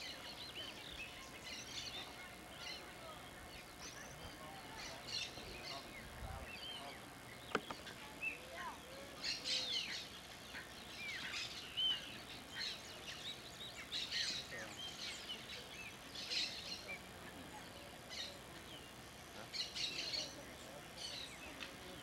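Birds chirping, many short high notes coming and going over faint outdoor background noise, with one sharp click about seven and a half seconds in.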